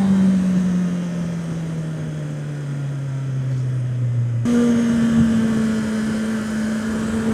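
Honda CB650R's inline-four engine running on the road. Its note falls steadily as the bike slows off the throttle, then jumps back to a higher, steady pitch about four and a half seconds in.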